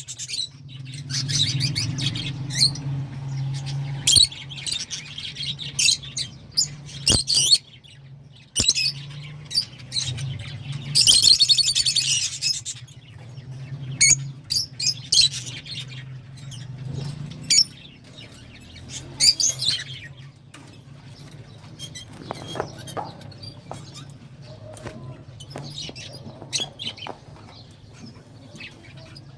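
A flock of rosy-faced lovebirds chattering in rapid, shrill chirps and squeaks, thick through the first twenty seconds and thinning out towards the end.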